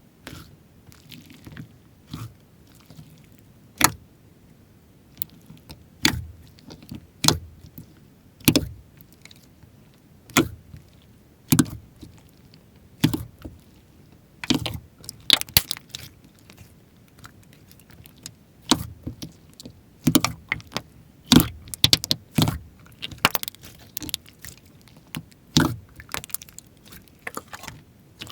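Hands playing with slime: irregular sticky pops, clicks and squelches, several a second in places, with short gaps between handfuls.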